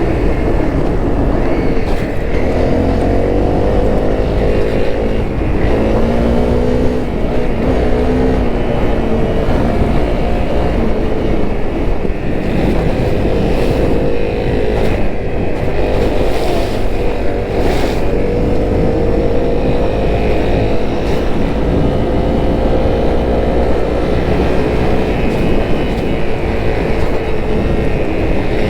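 Honda CRF250L single-cylinder dual-sport motorcycle engine running under way, its note rising and falling again and again as the throttle opens and closes, over a steady low rumble.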